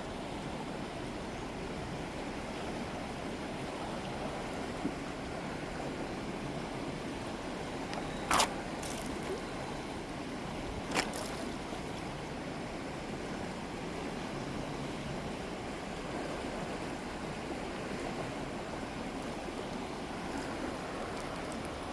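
River water running steadily, with two short sharp knocks, about 8 and 11 seconds in.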